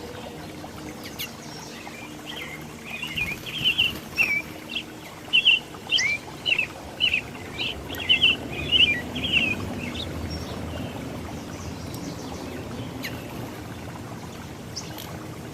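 A songbird singing: a long run of quick, sharp chirped notes, starting about two and a half seconds in and stopping about ten seconds in, with a few single high chirps before and after.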